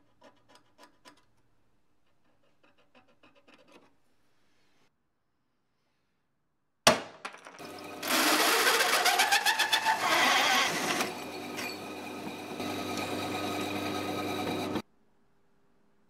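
A few faint clicks of small objects being handled, then a sharp knock. An electric-motor machine then runs with loud grinding and crunching for about seven seconds, a pitch rising as it spins up, and cuts off abruptly.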